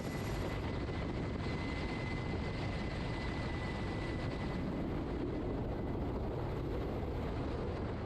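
Steady engine drone of an aircraft in flight, with a faint thin whine held through the first half.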